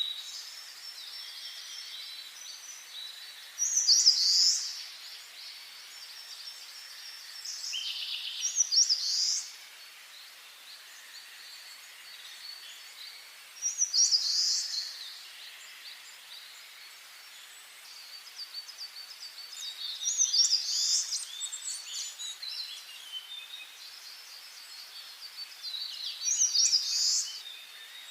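Wild songbirds singing: one bird repeats a loud, short song phrase about every five to six seconds, with quieter birdsong and chirping from others in between.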